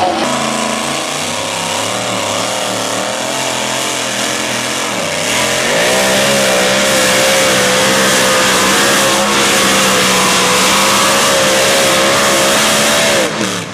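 Pulling vehicle's engine at a tractor/truck pull, revving up about five seconds in and then holding a high, nearly steady full-throttle note under load while dragging the sled. The note falls and drops off just before the end.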